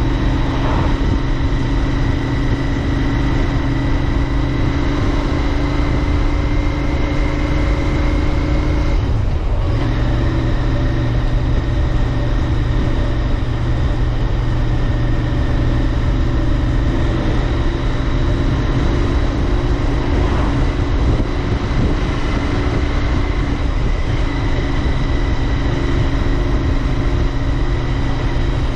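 Royal Enfield Interceptor 650's 648 cc parallel-twin engine running at a steady cruising speed under way. There is a brief break in the engine note about nine seconds in, after which it carries on at nearly the same pitch.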